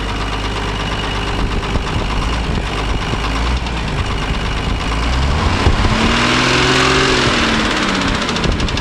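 Leyland Comet truck diesel engine running, revved once about five seconds in and falling back to idle about two seconds later. This is the engine running again after standing unused for seven years.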